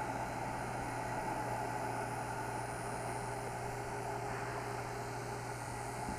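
Steady low rumble and hum of a passenger train running far down the line after passing the platform.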